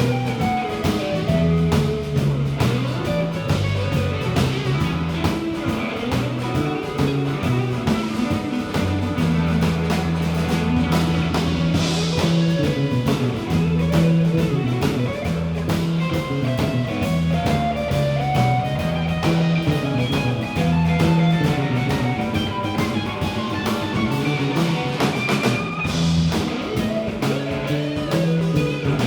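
Live band playing an instrumental passage: guitar lines over steady bass notes and a drum kit keeping a busy beat.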